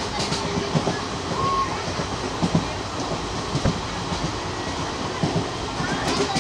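Train running on the track: a steady rumble with irregular knocks from the wheels on the rails.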